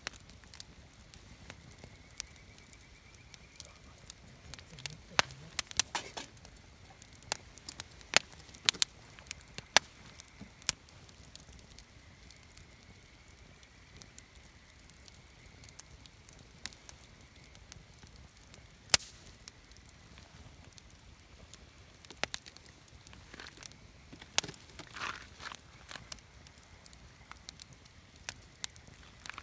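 Wood campfire crackling, with sharp pops and snaps coming at irregular intervals, bunching into quicker runs at times.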